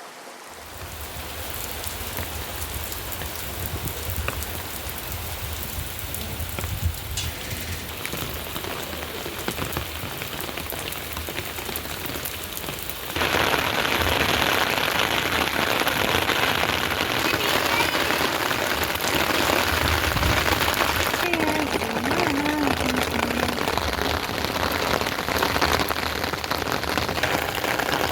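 Steady rain falling on a garden, a dense hiss of drops with fine individual patters, growing suddenly louder about halfway through.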